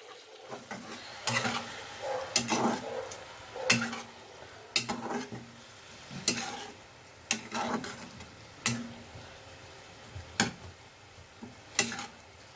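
A spatula stirring and scraping in a cooking pot, a stroke about every second or so, over a faint sizzle of frying.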